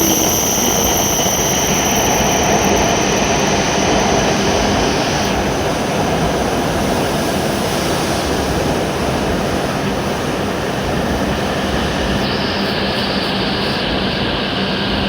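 W7 series Shinkansen train pulling into the platform and slowing, a loud steady rush of running noise. A high whine fades out about five seconds in, and the noise eases slightly as the train comes in.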